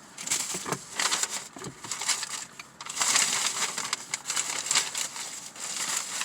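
Close-miked chewing of a sausage, egg and cheese McMuffin, irregular wet, crunchy mouth noises in quick bursts, loudest in the middle.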